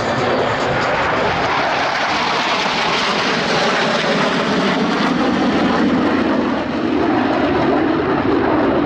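Jet noise from Blue Angels F/A-18 Super Hornets in flight: a loud, steady rush that lowers in pitch in the second half as the jets pass.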